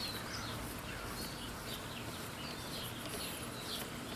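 Small birds chirping, many short falling chirps repeated throughout, over a faint steady outdoor background.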